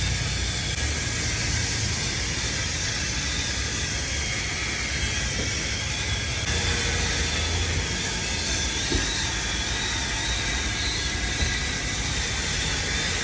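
Steady rushing noise with a low engine rumble underneath, from a car with its engine running.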